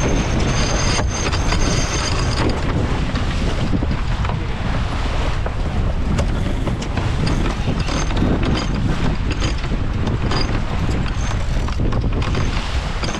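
Strong wind buffeting the microphone aboard a Yamaha 30 sailing yacht heeled in rough water, with water rushing and slapping along the hull. A faint high whistle sounds over it during the first two seconds.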